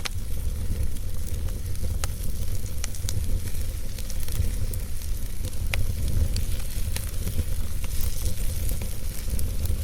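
Wood fire burning in a fireplace: a steady low rumble and hiss, with scattered sharp crackles and pops from the burning logs.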